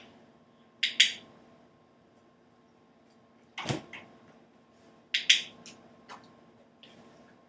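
Two quick pairs of sharp clicks and a duller knock between them, with a few lighter ticks later over a faint steady hum.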